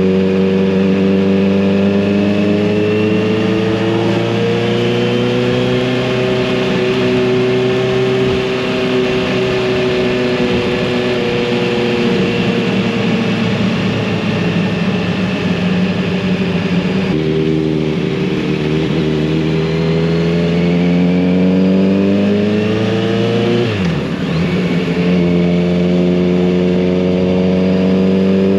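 Kawasaki Z900RS inline-four engine and exhaust running under way. It holds a steady note with slowly rising and easing pitch, drops sharply in pitch about halfway through, then climbs again, dips briefly near three-quarters of the way through and builds again.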